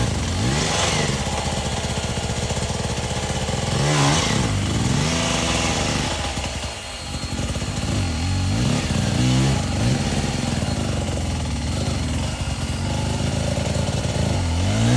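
Enduro dirt bike engine revving up and down over and over in short throttle bursts, with a brief drop in revs about seven seconds in.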